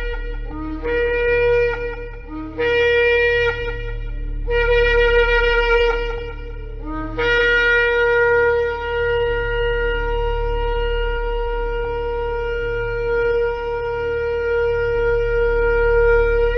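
Shofar blown in a series of blasts. Each blast opens on a brief lower note and jumps up to a higher held note. The blasts grow longer, and the last is held for about nine seconds over a steady low hum.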